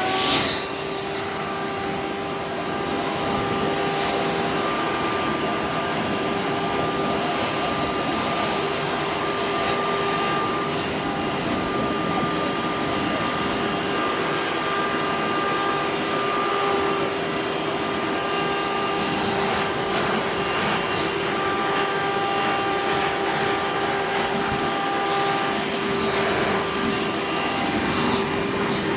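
Hoover Turbo Power 2000 upright vacuum's 7.2-amp motor running steadily, a constant motor hum over the rush of air.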